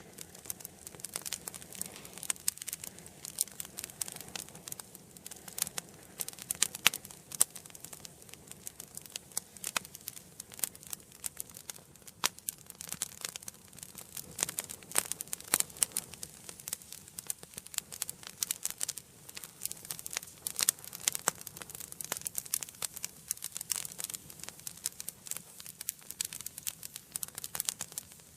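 Wood fire crackling in a fireplace: a dense, irregular stream of sharp pops and snaps over a faint hiss of burning.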